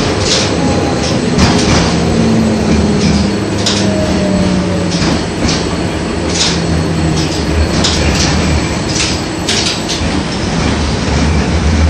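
LVS-86K tram running along the track: a steady rolling rumble with irregular sharp knocks from the wheels, and a low motor hum that sinks slightly in pitch.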